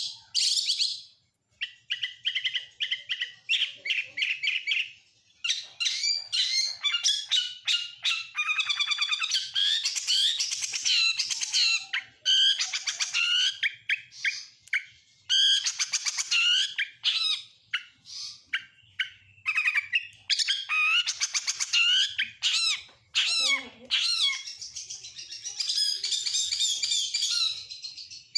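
Oriental magpie-robin (kacer) singing a long, varied song: runs of whistles, fast trills and chirps, broken by short pauses, with mimicked phrases of other songbirds woven in.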